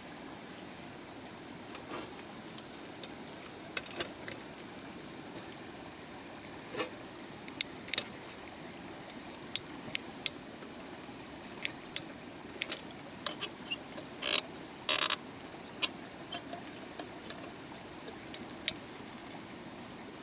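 A small mountain stream running steadily, with scattered sharp clicks and clinks over it.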